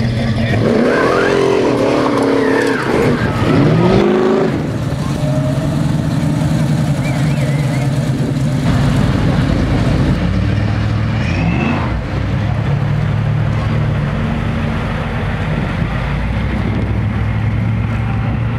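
Engines of classic American cars: an engine revving up and down in the first few seconds, then the steady low rumble of cars driving slowly past.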